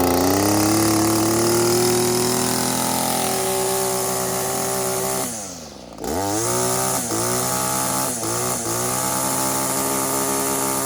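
Flooded two-stroke string trimmer engine running with the throttle held open, clearing out its excess fuel. About halfway through it bogs down sharply and nearly stalls, then picks back up and runs on with a few brief stumbles.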